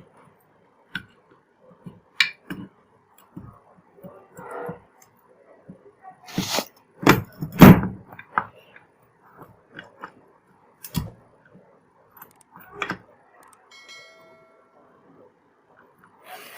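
Metal parts of a Honda CD 70 engine being handled and fitted by hand during assembly: scattered clinks and knocks of the gearbox parts and washers, with a run of louder knocks about seven seconds in.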